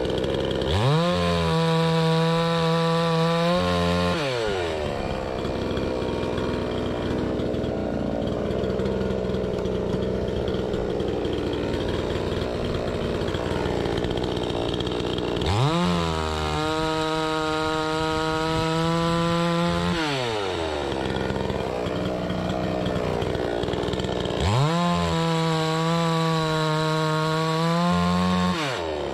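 Two-stroke gasoline chainsaw running hard. It revs up to a steady high pitch three times, and in between the pitch drops and the sound turns rougher.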